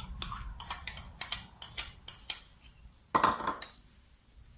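A spoon clinking against a plate and bowl as pieces of canned fish are served out: a run of quick, light taps, then one louder clatter a little after three seconds.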